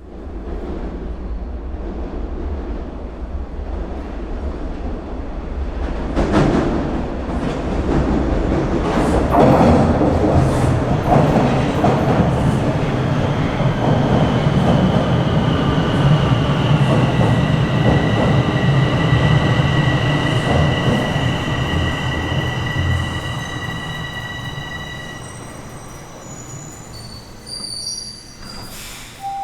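Bombardier Toronto Rocket subway train running on the Sheppard line: a low rumble that builds into loud rail clatter. Steady wheel squeal at two pitches runs through the middle stretch, then the noise fades near the end.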